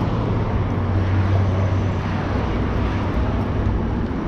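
An engine running steadily, a low even drone with a wide hiss over it.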